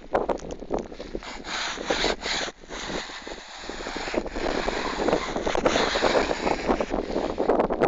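Gale-force wind gusting on the microphone in a snow blizzard: a loud rushing buffet that swells and drops, easing briefly twice in the first few seconds.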